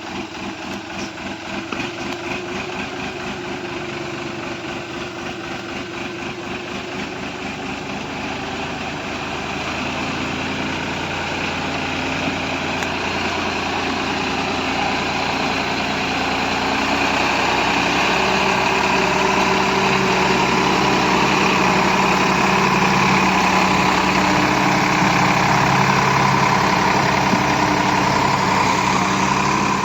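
Tractor diesel engine running at idle with an even firing beat. About ten seconds in it picks up speed and grows louder, then holds steady at higher revs.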